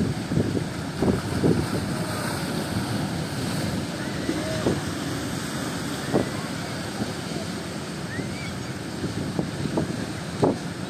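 Strong wind buffeting the microphone in gusts over a steady rush of sea surf.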